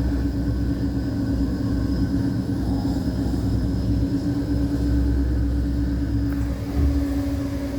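Engine of a steel-hulled longline fishing boat running steadily under way: a constant low rumble with a steady hum.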